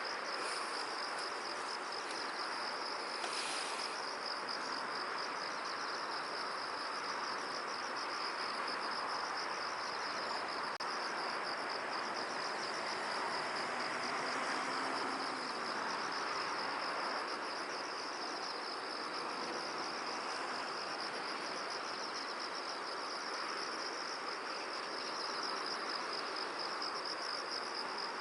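A continuous high, finely pulsing insect trill over a steady rush of wind, with a brief higher rustle about three seconds in.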